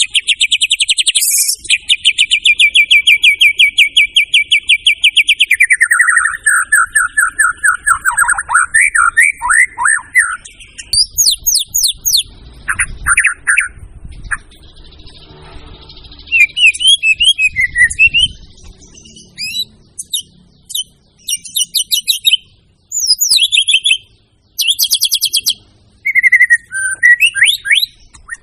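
White-rumped shama (murai batu) singing loudly. It opens with a long run of rapid repeated notes, moves into falling notes, then gives short varied whistled phrases with brief pauses between them.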